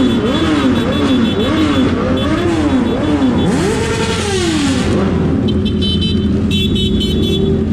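Big motorcycle engines revving in quick blips, the pitch rising and falling about twice a second. Then one longer rev falls away and the engine settles to a steady idle.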